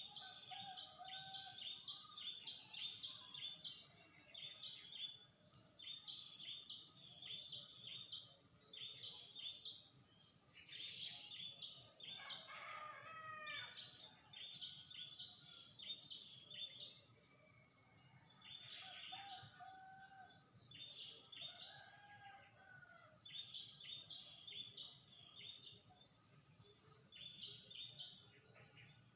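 A steady high insect drone with repeated bursts of high, rapid bird chirping throughout, and a rooster crowing once about twelve seconds in. A few short, low calls come now and then.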